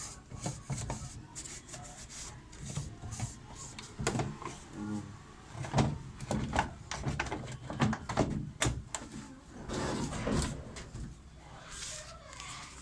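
Irregular knocks and clatters of a semi-automatic washing machine's body panel being handled and fitted back onto the machine.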